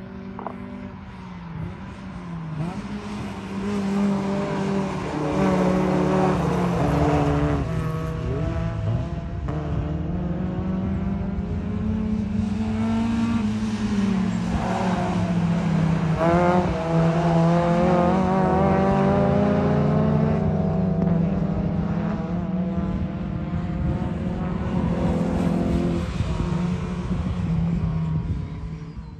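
Mazda MX-5's four-cylinder engine with a cat-delete, straight-midpipe race exhaust, pulling hard through the gears: the pitch climbs, falls back at each shift, and climbs again several times.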